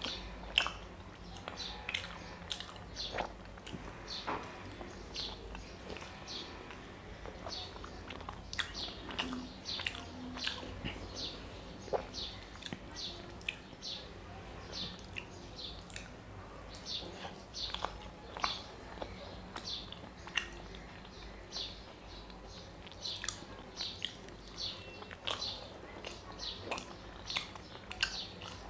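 Close-up wet chewing and lip smacking of a person eating soft, syrup-soaked rasgullas, with many short, sharp mouth smacks a couple of times a second.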